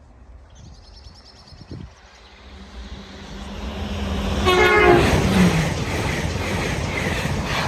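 Lumo Class 803 electric train passing at speed. A rushing noise builds over a few seconds, a short horn blast sounds about four and a half seconds in, and the steady rush of the carriages going by follows.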